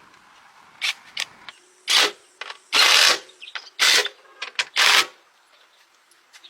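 A hand tool worked on the truck in a series of about six loud strokes, roughly one a second, with the longest stroke near the middle.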